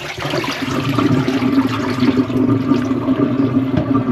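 Tap water running steadily and splashing over cut pieces of pig feet as they are rinsed.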